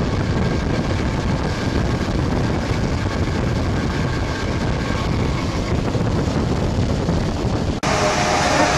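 Electric narrow-gauge train of the Bernese Oberland Railway running at speed, heard through an open carriage window: a steady rumble of wheels on rails mixed with wind buffeting the microphone. The sound breaks off suddenly near the end and gives way to a different steady sound with a faint hum in it.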